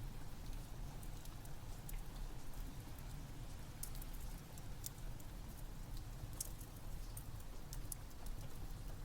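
Wood fire crackling in a fireplace, scattered sharp pops over a steady background of rain and a low rumble.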